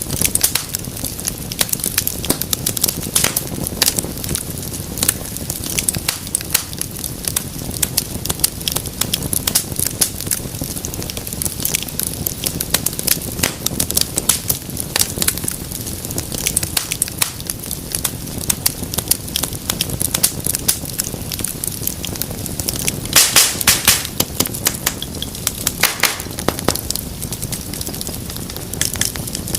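Wood fire crackling and popping steadily over a low rumble of flame, with a louder cluster of sharp pops a little over twenty seconds in.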